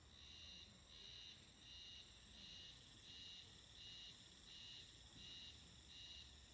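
Faint high chirps repeating at an even pace, about three every two seconds, from a calling animal outdoors, most like an insect's song.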